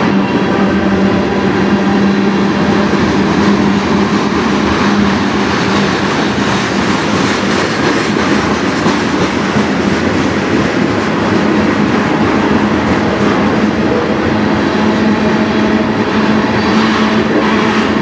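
A CN freight train rolling past on the track: a loud, steady rolling rumble of rail cars with a continuous hum and wheel clatter.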